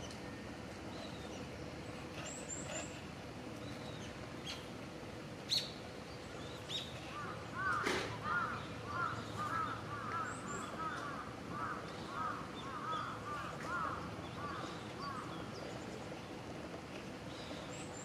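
Outdoor ambience with a distant bird giving a long run of short, harsh repeated calls, about two a second, from about seven seconds in. A few thin, very high bird notes and a single sharp click come in the first half.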